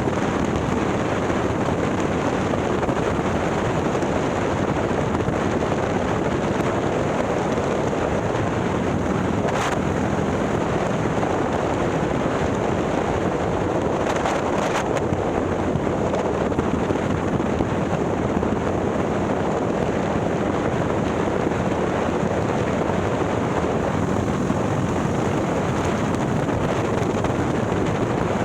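Steady wind rush over the microphone from a Harley-Davidson touring motorcycle riding at speed. Under it runs the bike's 130ci Milwaukee-Eight V-twin through a ThunderHeader exhaust.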